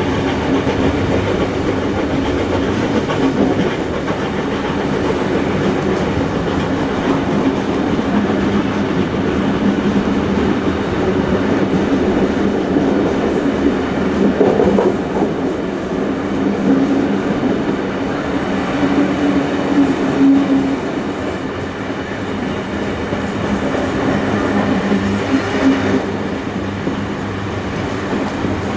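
Steam-hauled passenger train running along the track, heard from on board: a steady rumble of carriage wheels on the rails with a continuous low hum.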